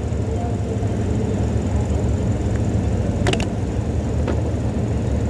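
Steady low rumble of background noise. A sharp double click comes about three seconds in, and a fainter click a second later.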